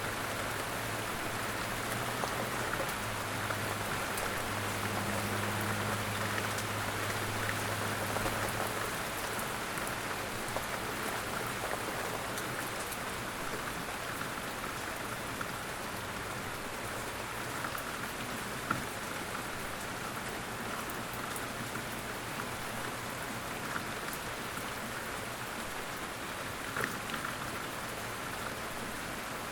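Steady light rain: a dense, even patter with a few louder single drops scattered through it.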